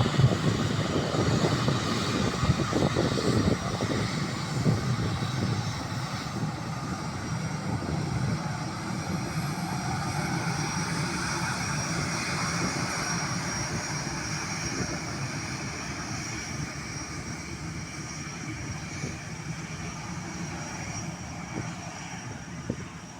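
Airliner engines passing close, then fading steadily as the aircraft moves away, with a thin, steady high whine over the rumble.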